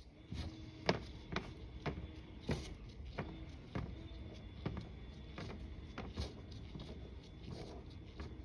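Stainless steel parts and clamps clinking and tapping as they are handled: irregular sharp clicks, about one or two a second.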